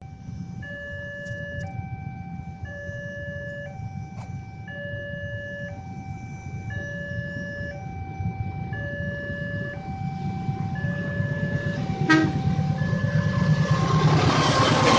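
Electronic level-crossing alarm sounding two alternating tones, each held about a second, over a low rumble. The rumble of an approaching train grows louder and fills out over the last few seconds.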